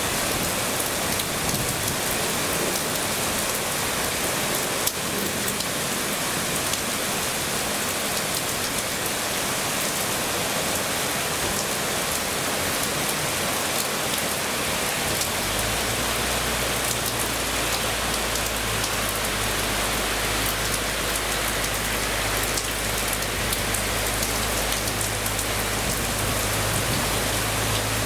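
Heavy rain pouring down in a steady, even hiss. About halfway through, a steady low hum joins in under the rain and keeps going.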